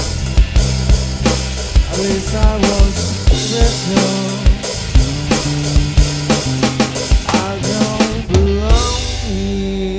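Live band playing the instrumental closing bars of a slow rock song: drum kit beating steadily over bass and sliding melodic lines. The drums stop near the end, leaving a final chord ringing.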